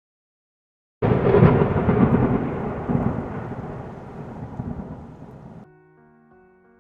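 A loud clap of thunder that starts suddenly about a second in, rumbles and fades away, then cuts off abruptly; soft piano music begins near the end.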